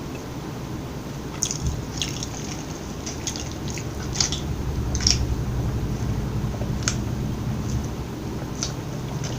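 Close-miked chewing with scattered wet mouth clicks, over a steady low hum.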